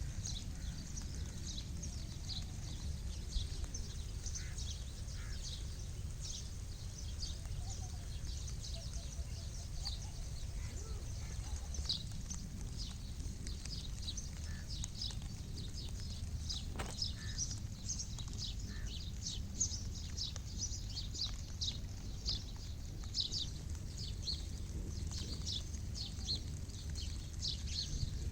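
Outdoor village ambience: many short, high-pitched animal calls and chirps over a low, steady rumble.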